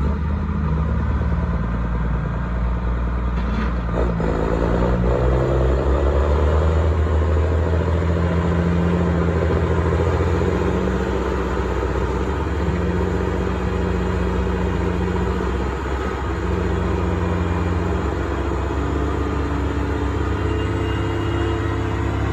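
Heavy truck's engine running steadily under load, its pitch stepping up and down several times.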